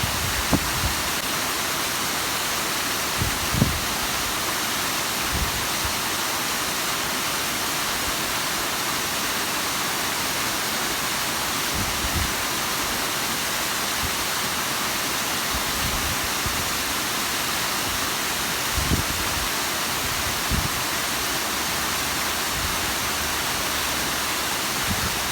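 Bigăr waterfall's steady rush of falling and splashing water, with a few brief low thumps scattered through it.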